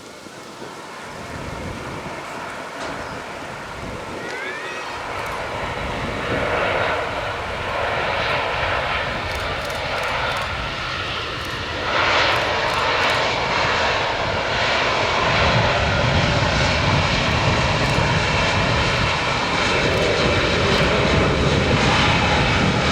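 Airplane engine noise growing steadily louder, with a jump about halfway through, then holding loud.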